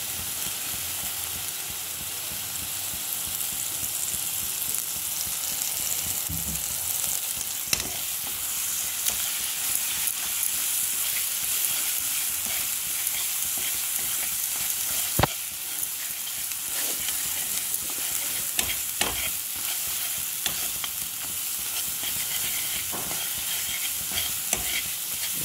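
Ground onion-tomato masala paste sizzling in oil in a black kadhai as it is fried, with a steel spatula stirring and scraping through it. Scattered sharp clicks of the spatula against the pan, the loudest about 15 seconds in.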